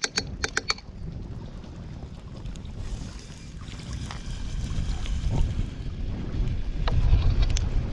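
Wind buffeting the microphone, a rumbling noise that builds toward the end, with a quick run of sharp clicks in the first second.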